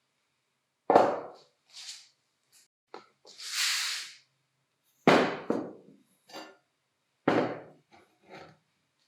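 Three loud knocks, each fading out over about half a second: one about a second in and two more near the end. Between the first two comes a short burst of hiss, and there are a few lighter taps.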